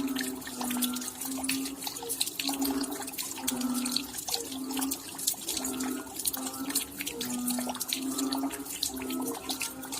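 Raindrops dripping at night: a dense patter of sharp drop ticks, with a steady run of short, low-pitched plinks about two a second.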